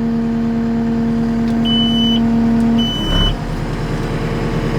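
JCB skid steer engine running with a steady hum. Two short high beeps sound about two and three seconds in, and the engine note changes abruptly just before three seconds in.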